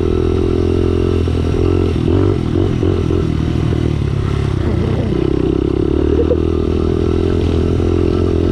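Pit bike's small single-cylinder engine running under way. It holds steady revs, then rises and falls with the throttle from about two to five seconds in, and settles steady again.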